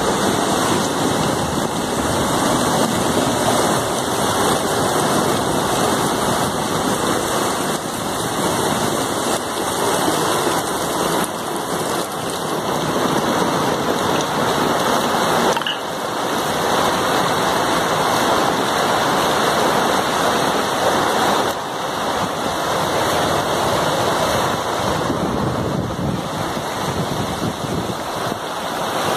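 Heavy monsoon rain pouring steadily onto a flooded street: a dense, unbroken hiss of rain splashing into standing water.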